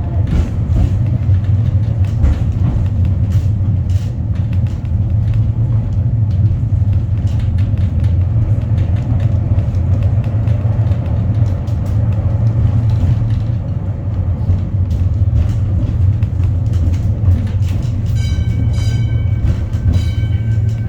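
Wellington Cable Car, a cable-hauled funicular, running on its track: a steady low rumble with frequent clicks from the wheels on the rails. Near the end a high, pulsing ringing tone sounds for a couple of seconds.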